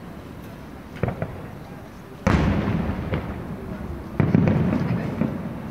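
Aerial firework shells bursting: a couple of small cracks about a second in, then two loud booms, a little over two seconds in and again about four seconds in, each followed by a long rolling echo that fades away.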